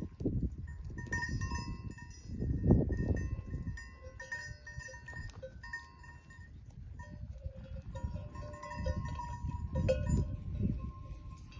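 Several neck bells on a flock of sheep and goats clinking and jingling irregularly as the animals move and graze, over low rumbling swells.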